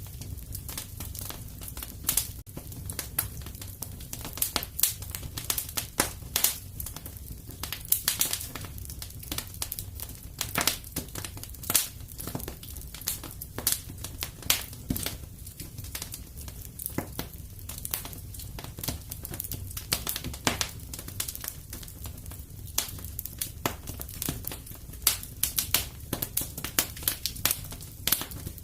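Wood fire crackling in a fireplace: irregular sharp pops and snaps of varying strength over a steady low rumble.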